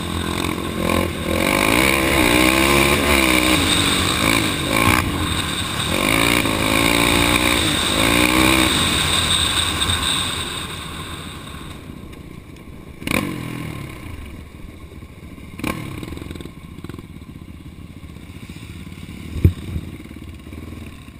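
Off-road vehicle engine revving up and down for about ten seconds, then easing off to a much quieter run. A few sharp knocks follow, the loudest near the end.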